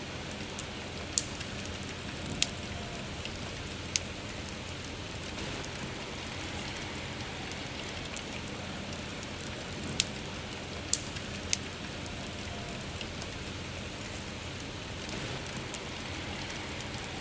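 Steady rain falling, with a campfire crackling: sharp single pops stand out over the rain now and then, about half a dozen in all.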